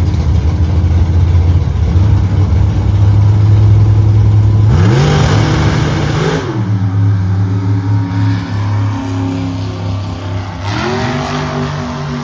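Drag-race car engine running loud and steady, then accelerating hard: its pitch climbs for about two seconds, drops at a gear change, and climbs again near the end while the sound slowly fades as the car pulls away down the strip.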